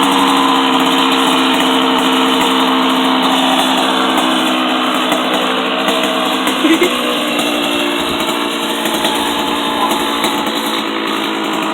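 Dirt bike engine idling steadily at a constant pitch.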